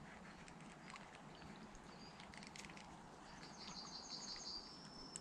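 Quiet riverside ambience with faint scattered bird chirps. About three and a half seconds in, a small bird gives a short run of high repeated notes.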